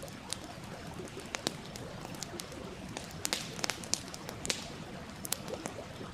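Campfire wood crackling, with sharp, irregular pops and snaps, over the steady rush of a stream.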